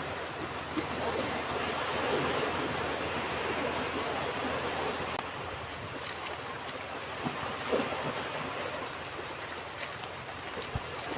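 Ocean waves washing onto a beach: a steady rush of surf, with a few faint clicks.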